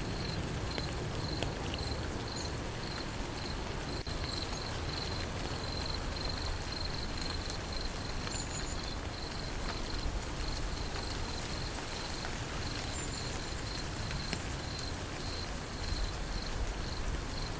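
Steady rain falling, with an insect chirping in a high, evenly pulsing note over it.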